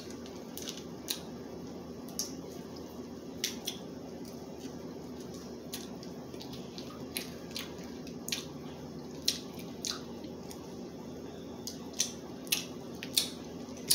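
Crab legs being eaten: irregular sharp cracks and wet clicks of shell and mouth, about one or two a second, over a steady low background hum.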